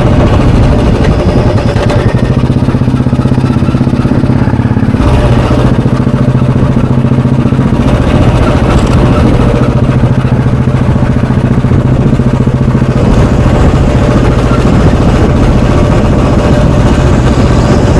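Royal Enfield Bullet 350's single-cylinder four-stroke engine running under way, the exhaust note steady and loud. The note shifts slightly about five seconds in and again a little past the middle.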